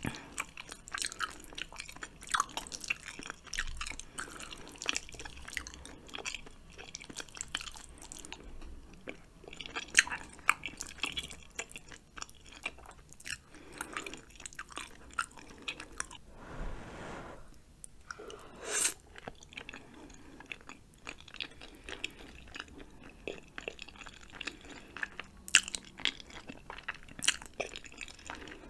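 Close-miked chewing of spicy ramen noodles and chewy rice cakes: irregular wet mouth clicks and smacks, with a few sharper, louder smacks.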